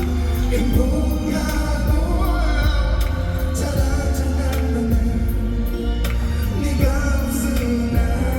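Live pop ballad: a voice singing over backing music with a heavy, steady bass.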